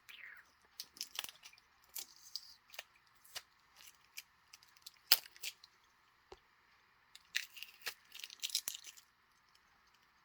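Tape being pulled and torn off a small plastic shipping container, crackling in irregular bursts with sharp plastic clicks; the busiest stretches come about a second in and again from about seven to nine seconds.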